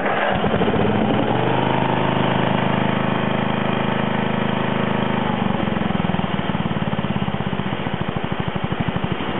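John Deere 111 lawn tractor's single-cylinder Briggs & Stratton engine running at a steady, fairly high speed, then dropping back about halfway through to a slower idle where the separate firing pulses can be heard.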